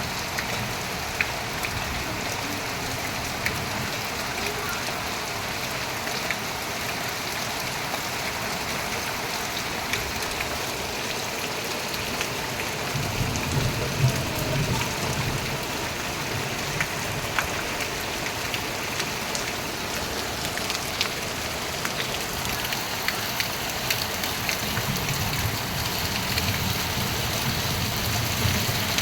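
Steady rainfall, with many scattered sharp drip taps of drops hitting nearby surfaces.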